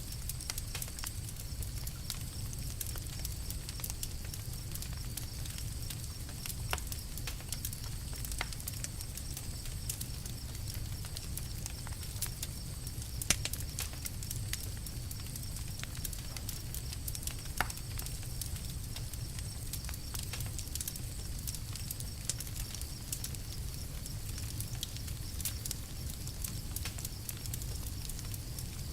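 Campfire crackling: a steady low rumble of burning wood, scattered with irregular sharp pops and snaps, a louder pop about 13 seconds in and another near 17 seconds.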